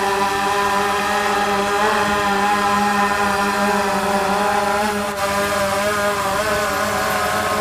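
DJI Phantom quadcopter's propellers humming steadily as it takes off and hovers, the pitch wavering a little after about four and a half seconds as the motors adjust.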